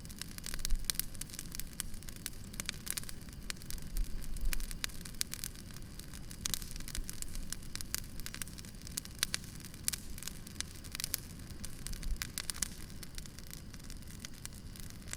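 Wood campfire crackling, with irregular sharp pops and snaps over a soft low rush of the burning.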